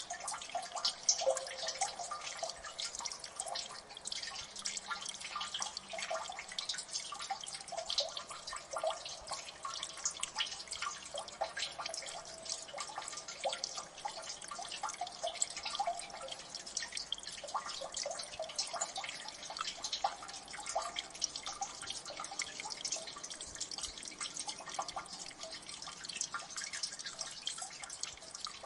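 Water dripping in a gully: many quick, irregular drips landing in water, layered thickly over one another at a steady level.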